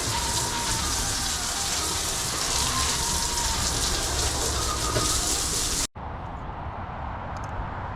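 Steady outdoor hiss with a few faint, thin chirping calls over it; it cuts off abruptly about six seconds in and gives way to a quieter, duller background.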